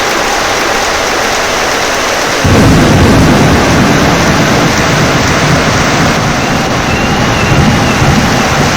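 Heavy rain hissing steadily. About two and a half seconds in, thunder breaks in suddenly with a deep rumble that carries on and slowly eases under the rain.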